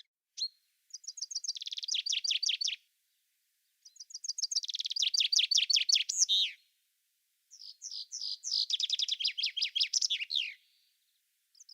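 A songbird singing three phrases of fast, rapidly repeated high trilled notes, each phrase lasting two to three seconds, with short silent pauses between them.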